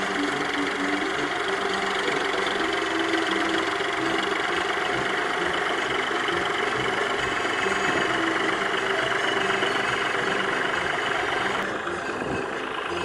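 Ford 4600 tractor engine running steadily while pulling a plough. Near the end the sound turns a little duller and quieter.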